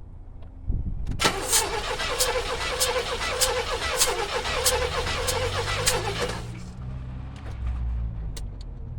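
Oldsmobile 307 V8 being cranked over on the starter with its spark plugs out for a compression test. The starter whines steadily for about five seconds, with an even pulse a little under twice a second, then stops.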